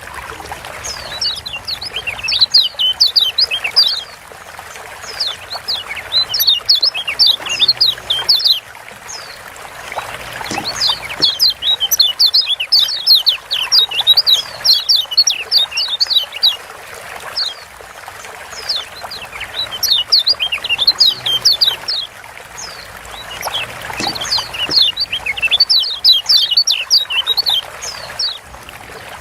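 Kecial kuning (Lombok yellow white-eye) giving rapid bursts of high chirping 'ciak' calls, in about five bouts of a few seconds each with short pauses between. It is the agitated call used as a pancingan recording to stir quiet birds into singing.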